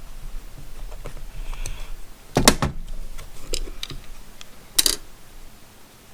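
Plastic clicks and light taps from unscrewing and handling the battery cover of a handheld infrared thermometer with a small screwdriver: a louder double click about two and a half seconds in, a few small ticks, and another sharp click just before five seconds.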